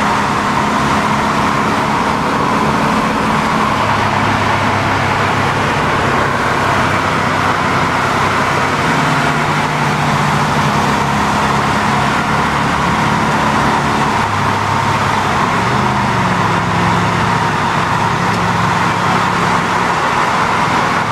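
Vehicle driving at road speed: steady road and wind noise over a low engine hum that steps up and down in pitch a few times.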